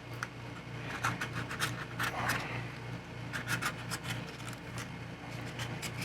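Scraping and picking at a thin skin of cured resin on a leftover resin plug: irregular scratchy rubs with many small clicks.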